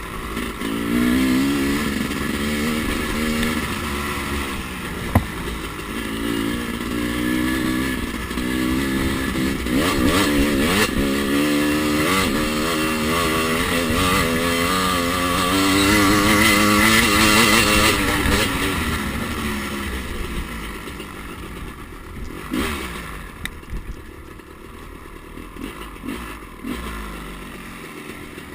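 Two-stroke dirt bike engine revving up and down, its pitch rising and falling again and again as it is ridden. It fades out after about twenty seconds, leaving fainter scattered knocks.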